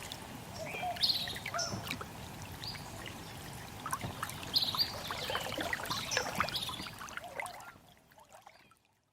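Small birds chirping and calling over a steady trickle of running water, fading out near the end.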